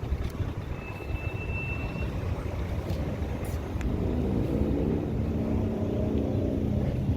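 Low vehicle rumble, with a steady engine drone coming in about four seconds in.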